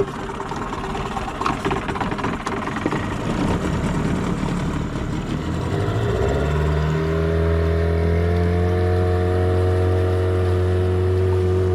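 Boat's outboard motor getting underway. There is rough engine and water noise for the first half, then from about six seconds in the motor settles into a steady run, its pitch edging up slightly.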